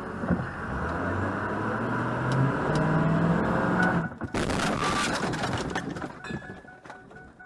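Car engine speeding up, its pitch rising, then a loud sudden crash-like burst about four seconds in, with noise trailing off after it. A short high tone repeats evenly near the end.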